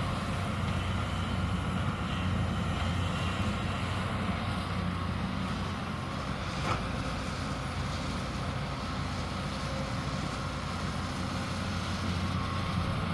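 Hyundai 220 excavator's diesel engine running steadily under work, a constant low hum, with one brief sharp click about halfway through.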